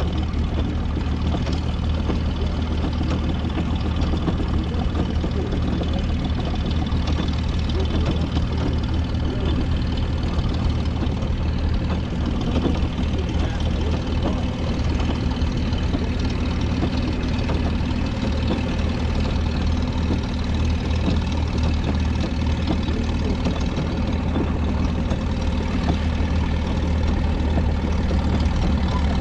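Engine running steadily with a constant low drone.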